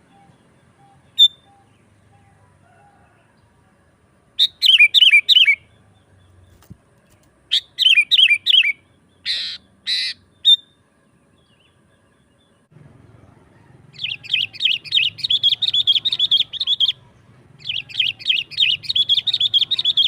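Sooty-headed bulbul singing: two short phrases of quick falling notes, then two harsh rasping calls about halfway through. In the second half come two long runs of fast, rapidly repeated chattering notes.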